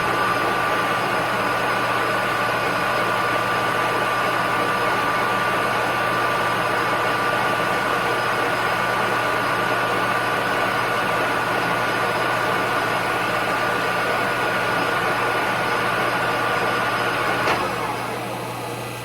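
Lathe running steadily with a whine while a 0.265-inch drill bit feeds through a nylon spacer blank. About 17 seconds in there is a click, the whine stops and the running dies down.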